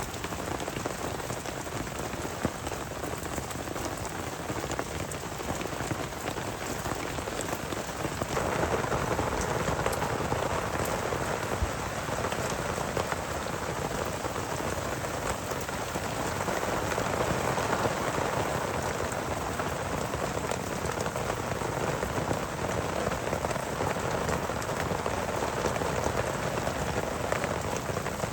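Heavy rain pouring steadily in a dense patter, which turns louder about eight seconds in.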